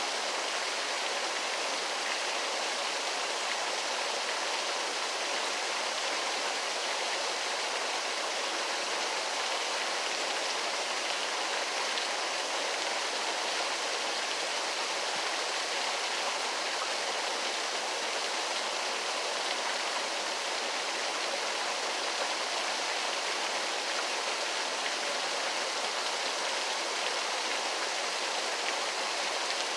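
Waterfall: a steady, even rush of falling water, hissy with almost no deep rumble.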